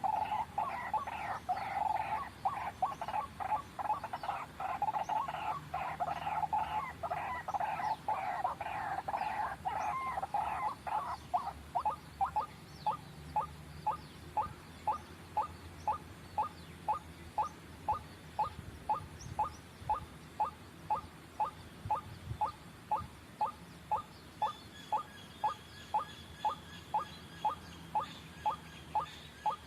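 White-breasted waterhen calling: a dense run of harsh, rapidly repeated croaking calls for about the first eleven seconds, then a steady series of short single notes, a little under two a second.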